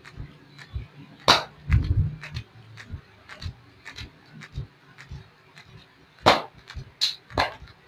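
Hands slapping and patting oiled skin in a foot and leg massage: irregular sharp smacks, a few loud ones among lighter pats, with a short low rumble about two seconds in.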